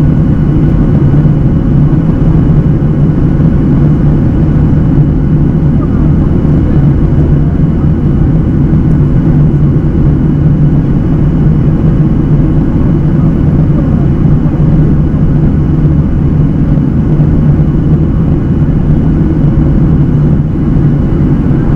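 Steady cabin drone of a Boeing 737-800 airliner in flight, its CFM56-7B jet engines giving a deep, loud rumble with a few constant hums through it. The pitch and loudness do not change.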